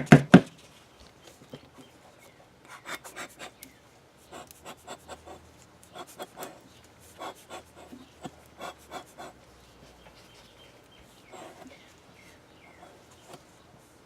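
A few loud rapid knocks in the first half second, then soft scattered rubbing, rustling and small clicks of hands working craft materials (ribbon, paper, duct tape) on a stick while applying glue.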